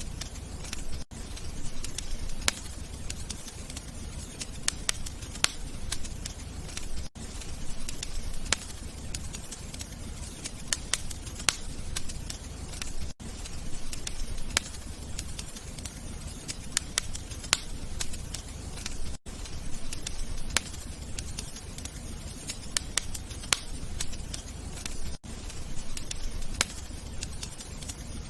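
Wood fire crackling in a fireplace: a steady low rumble of burning with frequent sharp pops and snaps. A brief gap breaks the sound about every six seconds.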